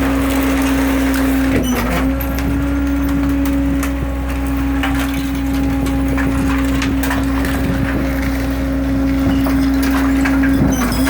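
Leach 25-yard rear-loader garbage truck packing: the Caterpillar C7 diesel is held at raised revs to drive the hydraulics, giving a loud, steady drone. Over it come repeated cracks and snaps as the carrier and blade crush trash and wood in the hopper.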